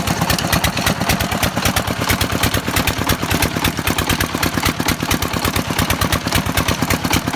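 Stationary diesel engine of an irrigation tubewell running at a steady speed, with a fast, even, regular beat.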